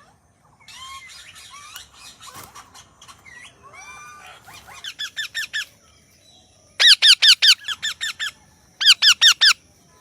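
Parrot calling: soft chattering squeaks and whistles in the first few seconds, then bursts of rapid repeated screeching calls, about six a second, loudest around the middle and again near the end.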